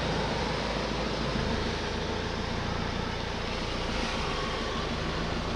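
A car driving along a flooded road, heard from inside the car: a steady low engine hum under an even hiss of tyres on the wet surface.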